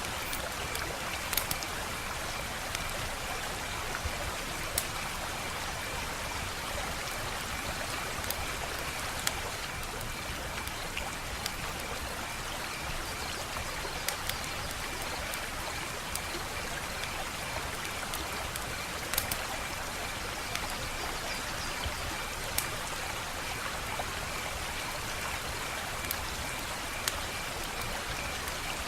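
Wood fire crackling: a steady hissing with scattered sharp pops and snaps at irregular intervals. A faint steady high trill runs underneath.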